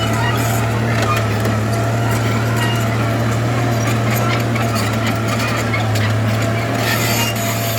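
Heavy diesel engine of earthmoving machinery running steadily at a constant speed, with a deep hum and a thin whine above it.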